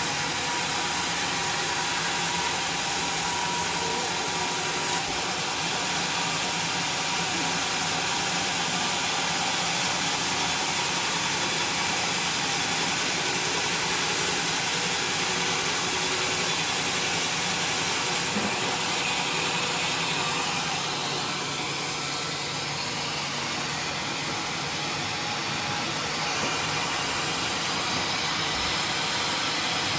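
Homemade sawmill machine running steadily: a continuous mechanical noise with a high hiss, easing slightly past the middle.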